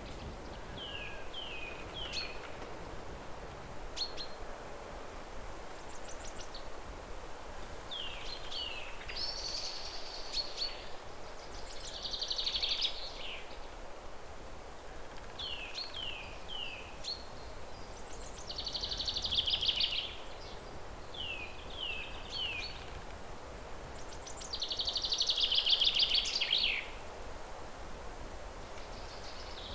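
A songbird repeating the same song: three short falling whistles, then a rapid buzzy trill, about every seven seconds. The trill near the end is the loudest. A steady low outdoor hiss runs underneath.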